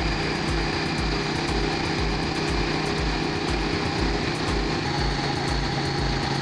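KTM 790 Duke's parallel-twin engine running steadily under way, with a constant rush of riding noise. The engine note drops slightly about five seconds in.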